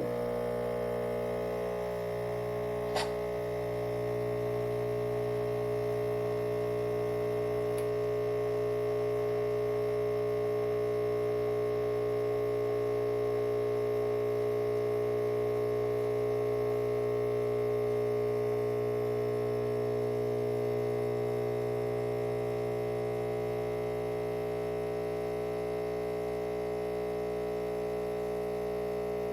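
Chefman espresso machine's 15-bar pump switching on and humming steadily while it brews a double shot, with a single short click about three seconds in.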